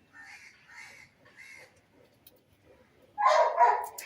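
Animal calls: three faint, short harsh calls, then a much louder harsh call about three seconds in.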